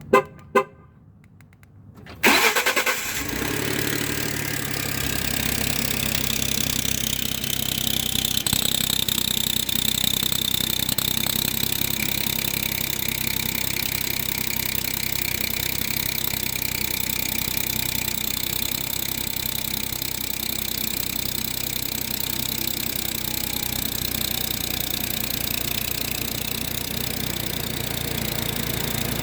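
Two clicks, then about two seconds in the 3.5-litre twin-turbo EcoBoost V6 of a 2012 Ford F-150 cranks and fires on a full cold start and settles into a steady idle. A high-pitched chirp runs over the idle, which the owner has read is a leaking exhaust manifold gasket.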